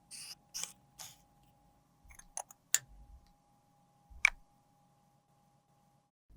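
Close-up handling of makeup and tools: four short scratchy strokes in quick succession, then three sharp clicks or taps spread over the next few seconds.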